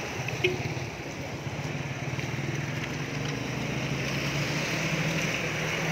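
A motor vehicle's engine running steadily, a low hum that rises slightly in pitch in the second half, over continuous street noise.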